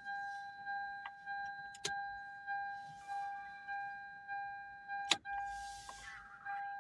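The dashboard warning chime of a 2000 Toyota MR2 Spyder, with the ignition switched on and the engine not yet running, dings at an even pace of about three times every two seconds. Two sharp clicks come through it, one a little under two seconds in and a louder one about five seconds in.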